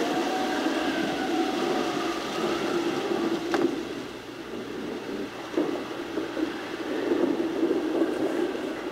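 Film storm soundtrack: steady rumbling wind and rain, with faint wavering wind whistles early on and a single sharp click about three and a half seconds in.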